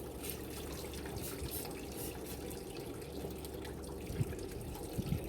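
Running water splashing as a barbecue grill is rinsed clean, with a few low knocks near the end.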